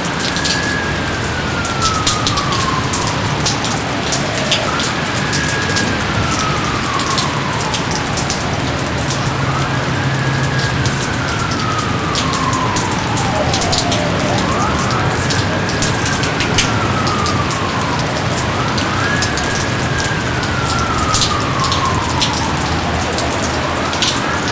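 Steady rain falling, with close drops pattering. Over it, a whistled tone rises quickly and then slides slowly down, repeating about every four to five seconds.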